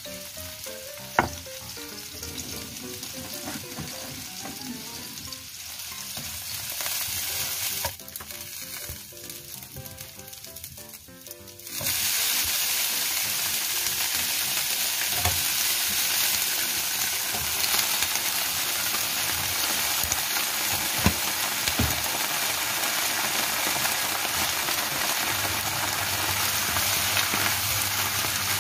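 Garlic and dried shrimp frying quietly in oil in a non-stick wok. About twelve seconds in, the sizzle jumps loud as napa cabbage goes into the hot pan, then keeps sizzling steadily while a slotted turner stirs it, knocking against the pan a few times.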